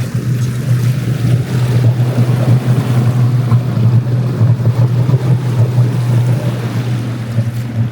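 Boat motor running steadily with a low, even hum, with wind and water noise over it.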